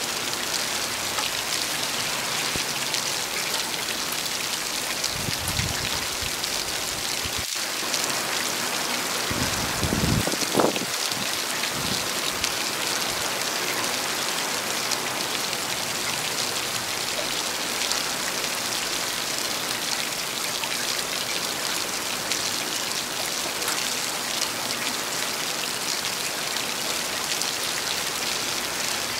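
Heavy rain falling steadily, a dense, even hiss. Brief low rumbles come about five and ten seconds in, the second the louder.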